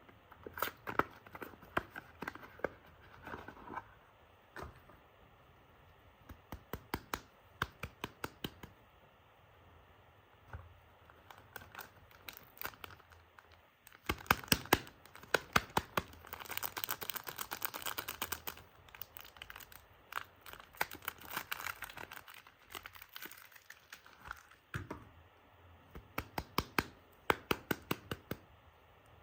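A soap bar's wrapper being torn open and unwrapped by hand: clusters of sharp crinkles and crackles, with a denser stretch of continuous crinkling in the middle.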